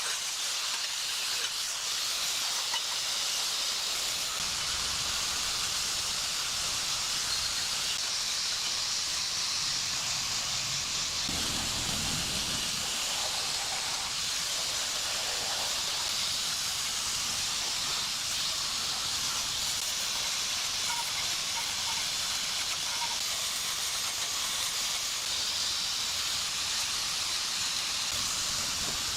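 A steady, even hiss, with a brief low rumble about twelve seconds in.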